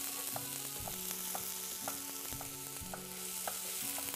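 Leeks sizzling as they fry in a pan, stirred with a wooden spoon, over soft background music with a steady beat.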